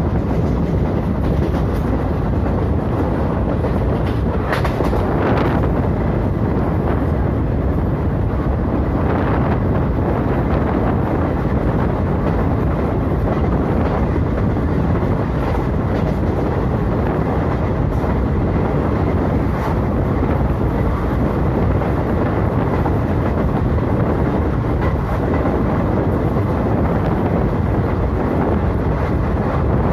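Express passenger train running along the track: a steady, loud rumble of wheels on rails with wind, and a few faint clicks scattered through it.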